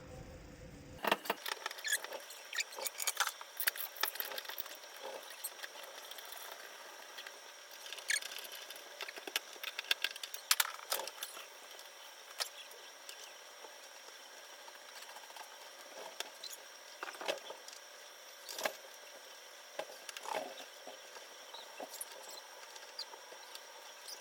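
Scattered small clicks, taps and faint squeaks of hand work on a shower valve during a cartridge replacement, busiest in the first few seconds and again around the middle.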